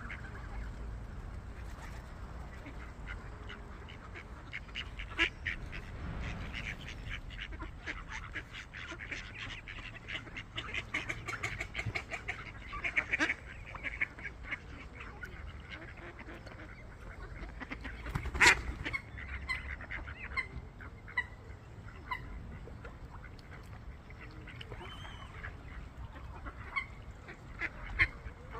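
Waterfowl on a lake calling: many short quacks and honks, scattered and busiest around the middle, over a low steady rumble. One sharp click about two-thirds of the way through is the loudest sound.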